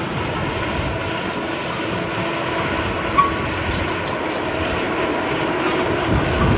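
Komatsu D31P crawler bulldozer working: diesel engine running steadily under the clatter of its steel tracks, with one sharp metallic knock about three seconds in.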